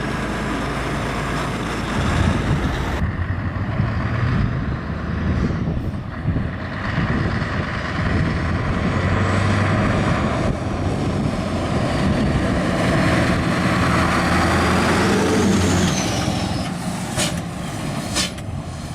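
Heavy trucks' diesel engines running, the engine note shifting as they move. There are a few sharp knocks near the end.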